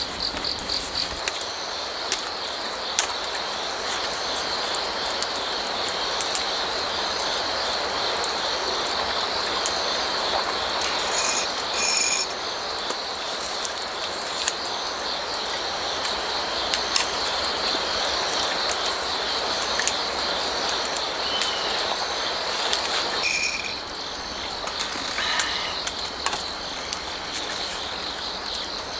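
Crickets and other autumn insects trilling steadily in a high, pulsing chorus over the even rush of a stream, with scattered sharp crackles from a wood fire. A few short ringing sounds come near the middle and again near the end.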